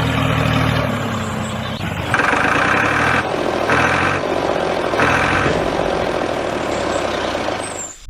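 A small motor running with a steady low hum that fades about a second in, followed by a harsher running noise with three short louder bursts.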